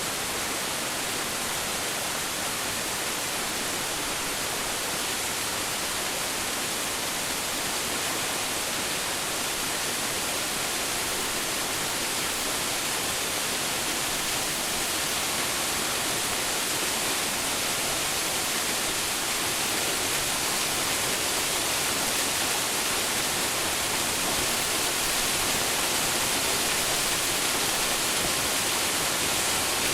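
A waterfall crashing steadily, a dense even hiss of falling water that stays level throughout.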